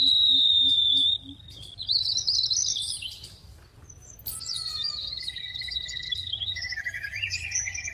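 Small bird chirping and whistling: a held high whistle, then a short warbling trill, then after a brief lull longer drawn-out whistles in two pitches.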